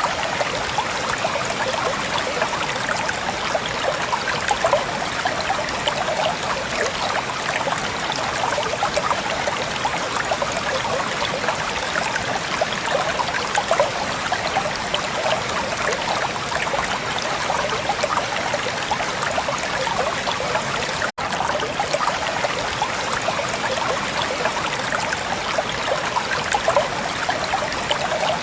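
Hill stream flowing steadily over rocks, a dense, even rushing and splashing of water, broken by a split-second dropout about three-quarters of the way through.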